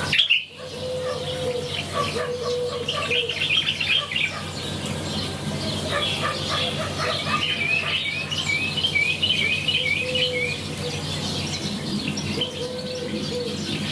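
Several small birds chirping and calling, with a quick run of repeated chirps about two-thirds of the way through, over a steady low hum.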